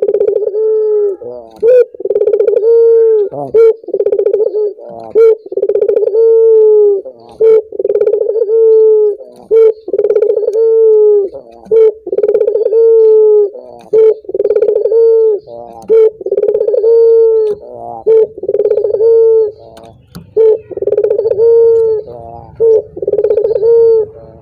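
Male puter dove (Barbary dove) cooing over and over: each call is a short sharp note followed by a long, steady coo, repeated about once every one and a half to two seconds.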